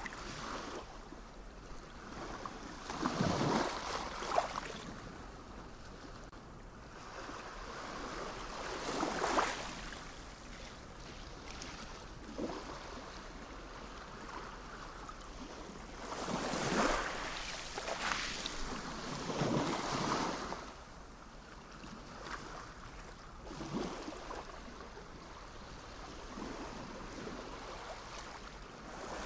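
Sea waves washing in, each wave a swelling hiss of surf that surges and fades every three to six seconds, with a softer steady wash between them.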